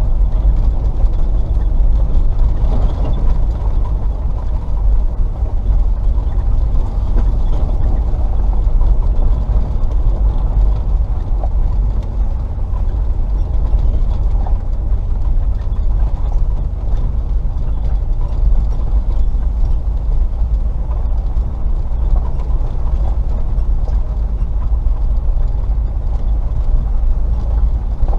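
Range Rover P38's 4.0-litre V8 driving slowly along a rough track: a steady low rumble of engine and tyres, with light ticks and rattles from the vehicle.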